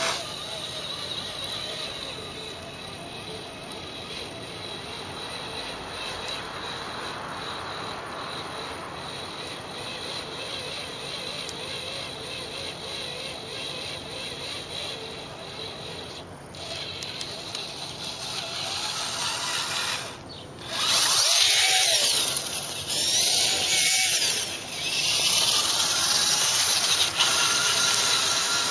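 RC crawler's Traxxas Titan 550 12-turn brushed electric motor and gear transmission whining as it runs, rising and falling in pitch. It is much louder from about two-thirds of the way through.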